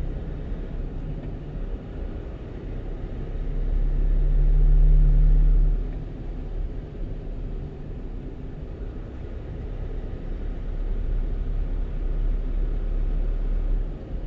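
Low, steady engine and road rumble of a one-ton truck heard from inside the cab while driving, swelling louder for about two seconds some four seconds in, then settling back.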